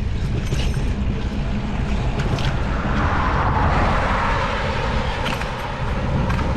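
Wind buffeting the microphone of a bicycle-mounted GoPro while riding at speed: a heavy, choppy low rumble with a hiss that swells and fades about halfway through.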